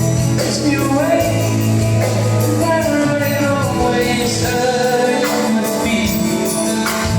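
Live soft-rock band music playing an instrumental passage with no lyrics: a melodic lead line bends and glides over sustained chords and a steady bass.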